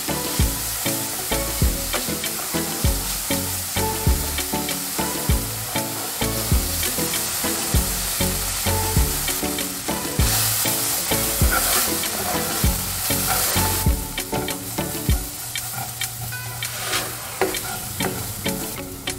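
Chopped onion, chilli and spices frying in oil in a non-stick pan and being stirred with a spatula: a steady sizzle that grows louder and hissier for a few seconds about halfway through. Background music with a steady beat plays along.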